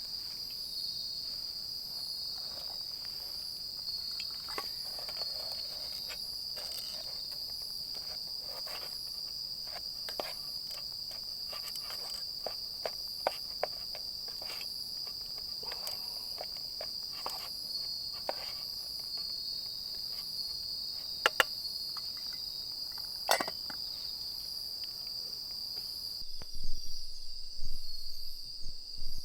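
Crickets and other insects trilling steadily in a high, continuous chorus, with scattered sharp clicks and pops over it. Near the end the chorus thins and a few low thumps come in.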